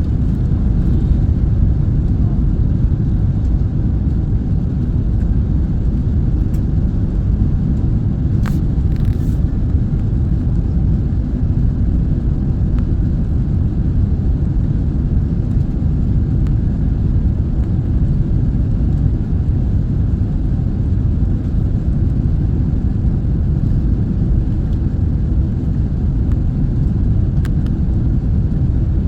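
Steady low rumble of a passenger jet heard from inside the cabin: engine and airflow noise, with a few faint ticks about eight seconds in and near the end.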